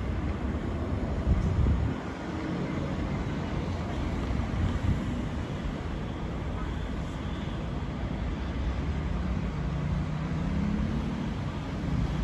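City street traffic rumbling with wind gusting on the microphone, strongest in the first two seconds. Near the end a passing vehicle's engine note rises in pitch.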